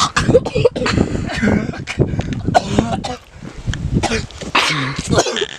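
A man coughing and clearing his throat over and over in a harsh, irregular fit, with a short lull about halfway through.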